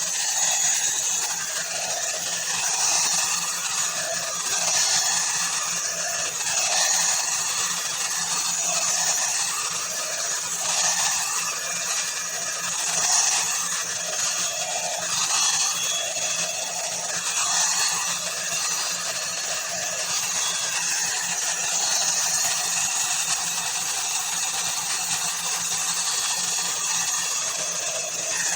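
Ubeator hot air brush running: a steady blowing whir over a low motor hum. It swells and dips every second or two.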